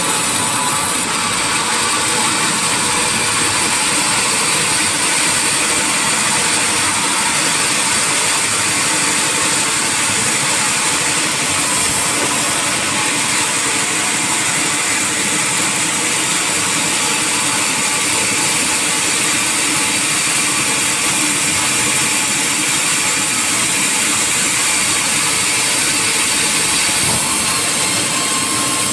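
Sawmill saw machinery running steadily, a loud, continuous mechanical noise with a strong high hiss.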